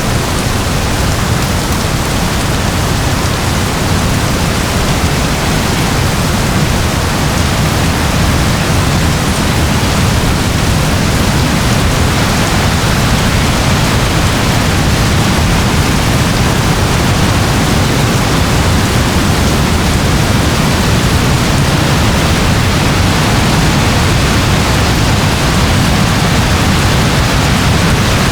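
Steady rain: an even, unbroken hiss with a low rumble beneath, without distinct drops or changes.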